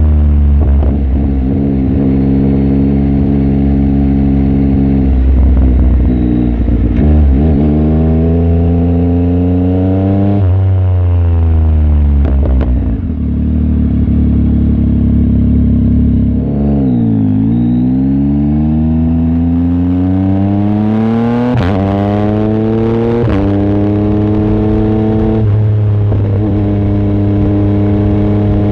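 Yamaha MT-09 SP's inline three-cylinder engine running through an exhaust with the baffle removed, under way: engine pitch rises and falls with the throttle, drops as the bike slows about midway, then climbs again through quick upshifts near the end.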